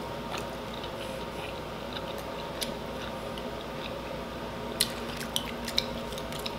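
Close-miked chewing and wet mouth sounds of a person eating sauce-covered rotisserie chicken, with a few sharp wet clicks near the end.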